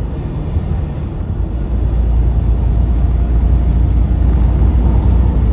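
Steady low drone of a semi-truck's engine and road noise inside the moving cab, growing louder about two seconds in.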